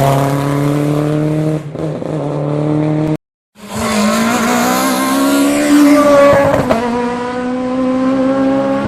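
Rally car engines at high revs on a special stage: one car accelerates hard with its pitch climbing, then, after an abrupt cut about three seconds in, a second car's engine runs hard, its pitch rising and dipping through gear changes.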